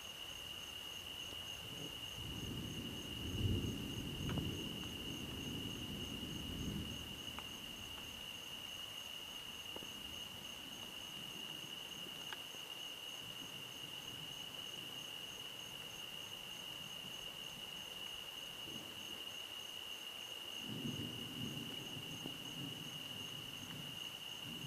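Steady high-pitched trilling of a night insect chorus, with two low rumbles of distant thunder, one a few seconds in and one near the end.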